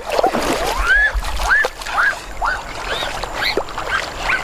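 A bird calling over and over: short chirps that rise and fall in pitch, about two a second, over splashing and clattering noise.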